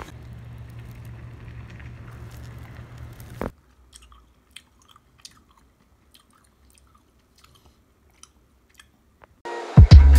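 Steady low hum that cuts off suddenly about three and a half seconds in, followed by faint, sparse, moist clicks of chewy candy being chewed. Music comes in loudly near the end.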